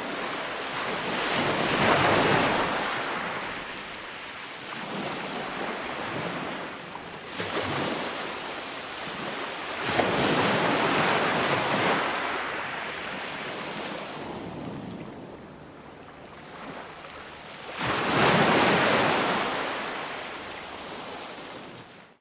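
Ocean waves breaking on a shore, three swells of surf washing in, each building and fading, with the biggest crashes about two, ten and eighteen seconds in.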